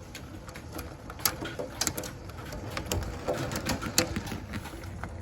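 Hail hitting window glass: irregular sharp ticks and clicks, several a second, over a steady hiss.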